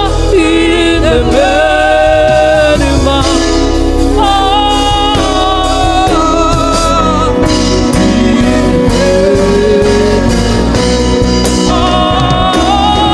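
Live gospel worship band playing slow worship music, with a lead melody of held and gliding notes over keys, bass and drums.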